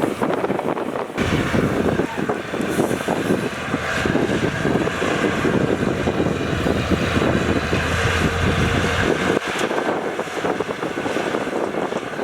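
Diesel engines of heavy earthmoving machines, dump trucks or bulldozers, running steadily, with wind on the microphone. The low drone strengthens about a second in and drops away near the end.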